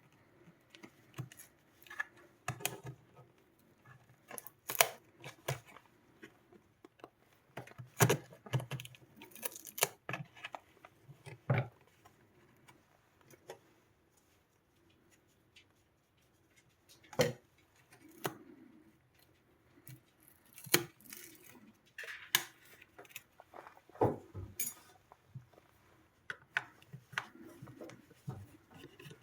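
Irregular clicks, taps and light metallic clatter of hand tools and small parts being handled while a Sonos Playbar is worked on, with a few sharper knocks scattered through and a quieter stretch about halfway.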